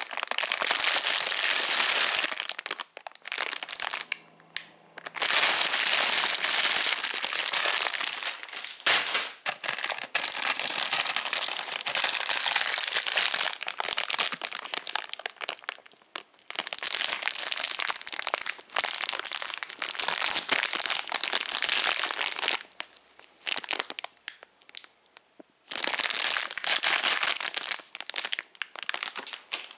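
Plastic candy wrappers and packaging being handled and crinkled, in long stretches broken by a few short pauses.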